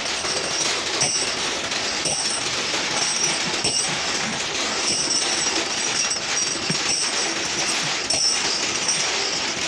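Machinery running, a steady noisy din.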